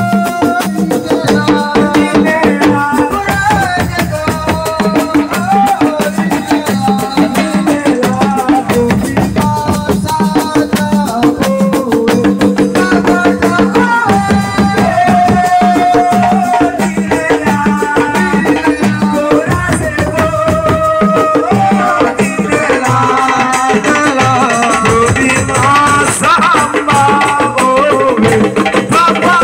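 Live assiko band music: dense, fast percussion under a stepping melody line.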